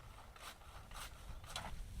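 Repeated short scraping or rasping strokes, about two a second, over a low rumble.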